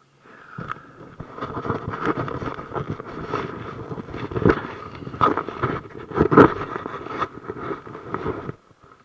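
Handling noise from a GoPro camera being taken off and fiddled with right at its microphone: dense rubbing and crackling with several louder knocks, the biggest two past the middle, cutting off suddenly near the end.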